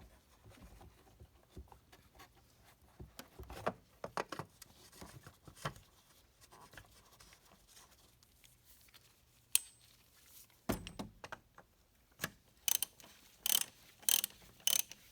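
Scattered light clicks and knocks of an oil filter cartridge and its housing being handled and put back in place by hand. A run of sharper clicks comes near the end.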